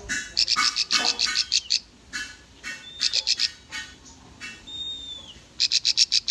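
Bar-winged prinia (ciblek) song: fast runs of sharp, high chips broken by short pauses, with one thin whistled note about five seconds in that dips in pitch at its end.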